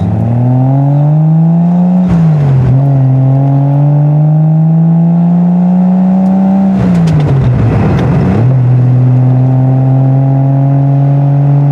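Triumph TR6's 2.5-litre straight-six running through a Monza exhaust with steel resonators, heard from the open cockpit. The revs climb, drop sharply about two seconds in as it changes gear, climb slowly again, and fall once more about seven seconds in before it settles into a steady cruise.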